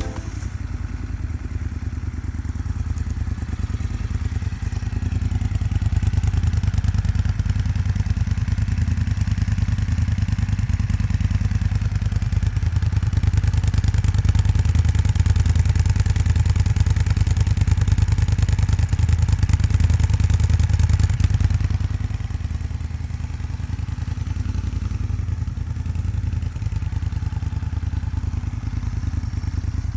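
Moto Guzzi Griso 1200 8V SE's transverse V-twin running at idle through a Termignoni exhaust with the dB killer fitted, a steady low pulsing. It gets louder about five seconds in and settles back down a little past twenty seconds.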